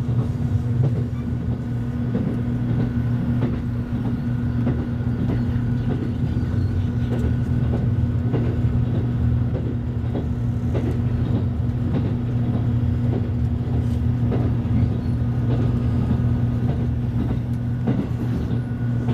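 Express train running, heard from inside the passenger car: a steady low hum with a faint steady high tone and scattered light clicks of the wheels on the rails.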